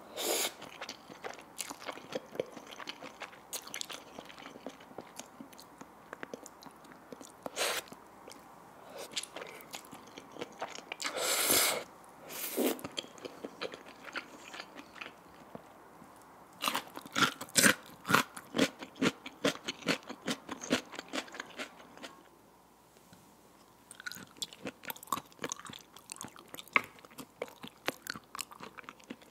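Close-miked eating of cheese buldak fire noodles: a noodle slurp at the start, then moist chewing with many sharp mouth clicks, densest in the middle and again near the end, with a brief pause shortly before the last run.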